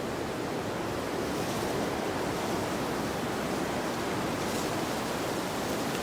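Wind blowing through a field: a steady rushing hiss with slight gusts about a second and a half in and again near the end.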